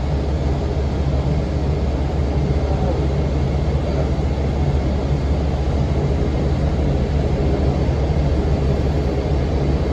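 Steady drone of a 2006 NABI 40' low-floor bus's Cummins ISM diesel engine with its engine cooling fan running, a continuous low hum under an even rushing noise.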